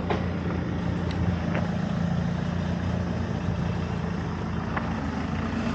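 A motor vehicle's engine running steadily with a low, even hum, with a few faint clicks over it.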